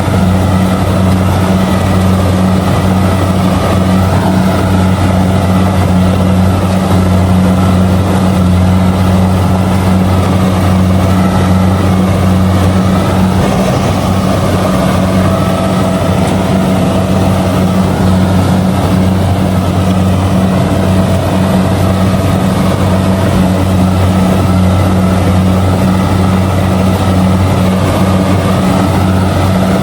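Kubota DC-70G combine harvester's diesel engine and machinery running steadily under load while harvesting rice: a loud, even drone with an unchanging low hum.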